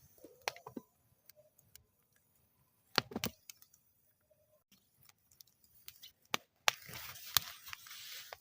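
Wood fire burning in a metal fire bowl, crackling with scattered sharp pops and snaps. A louder pair of pops comes about three seconds in, and from about two-thirds of the way through the crackling turns denser, with a hiss underneath.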